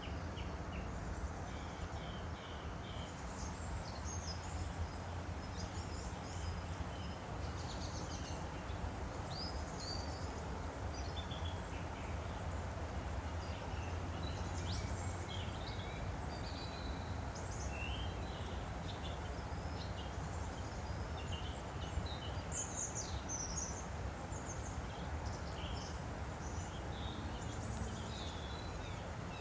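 Steady rushing of a woodland stream, with small birds chirping and calling in short, high notes throughout.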